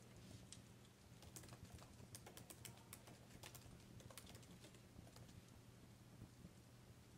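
Wood fire crackling faintly: irregular sharp pops and snaps, thickest in the first half, over a low steady hum.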